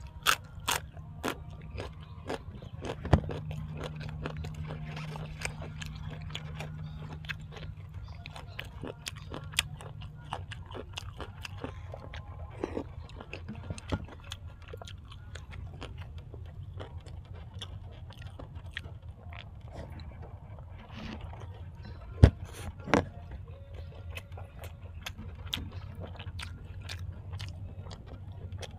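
A person chewing and biting food close to the microphone, with crunches and many sharp clicks, two of them louder, about three seconds in and about twenty-two seconds in. A steady low hum runs underneath.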